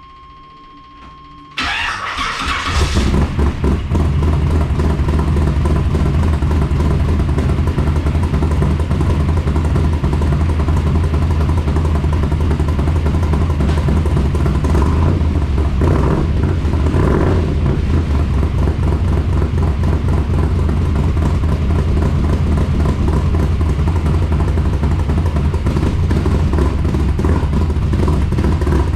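1982 Camaro's 5.0 V8 cranking and catching about a second and a half in, then idling steadily through its newly installed mufflers and exhaust.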